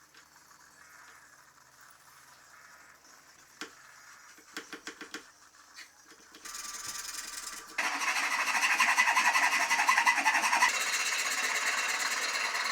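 A few small clicks and taps of handling, then about six seconds in a power tool starts up and, a second later, runs loud with a dense rasping noise, as of abrasive working on material.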